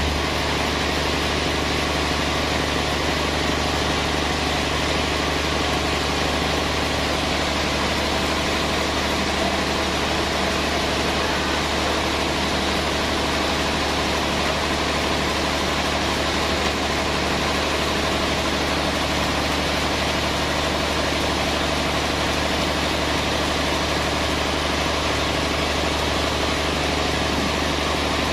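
Sawmill machinery running steadily: a constant, even engine-like drone with no change in pitch or load.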